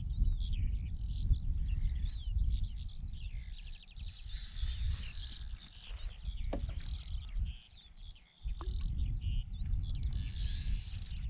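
Many small birds chirping and twittering outdoors over a steady low rumble that drops away briefly about eight seconds in.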